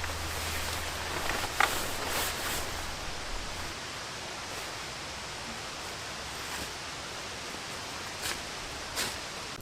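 Steady outdoor hiss with a few short rustles and light knocks, and a low hum that fades out a few seconds in.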